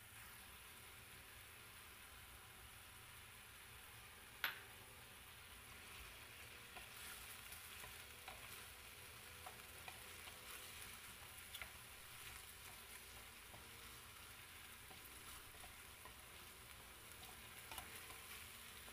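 Faint sizzling of shimeji mushrooms and bell pepper pieces stir-frying in oil in a nonstick pan, with a wooden spatula stirring and making light clicks. The sizzling gets busier about six seconds in, and a single sharp knock comes about four and a half seconds in.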